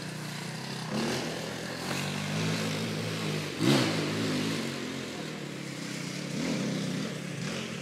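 Husqvarna motorcycle engine revving up and down in uneven swells, with a sharp burst of revs about four seconds in.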